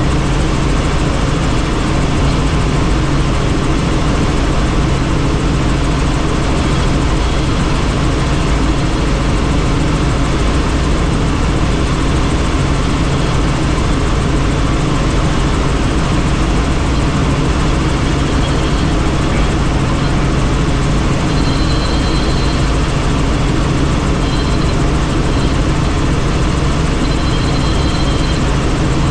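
Helicopter in flight heard from on board with the doors off: a steady drone of rotor and engine over a broad rush of air.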